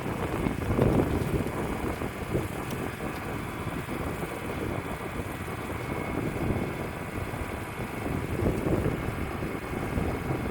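Wood-Mizer LT35 portable band sawmill running, nearly buried under gusty wind buffeting the microphone. The low rumble swells and eases with the gusts, loudest about a second in and again near the end.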